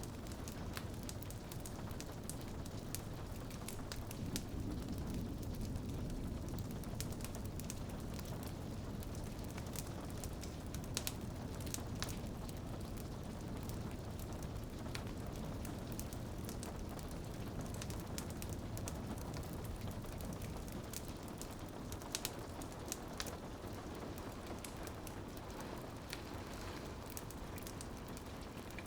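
Steady rain pattering on a window pane, with the sharp pops and snaps of a crackling wood fire scattered throughout.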